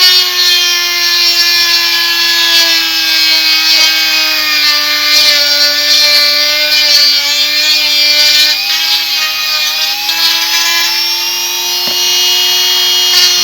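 Small hand-held rotary tool running steadily with a high whine, grinding to round off and shape the part. The whine dips slightly in pitch midway as the bit bears on the work, then steadies.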